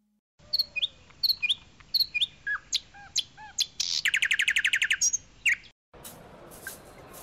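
Songbirds chirping: a series of short chirps and whistles, then a rapid trill of evenly repeated notes lasting about a second. The birdsong cuts off suddenly near the end and gives way to a faint steady background hum.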